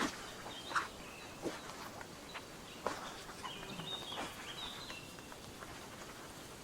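Forest ambience: scattered soft taps and crackles about once a second over a faint hiss, with a bird chirping briefly about halfway through.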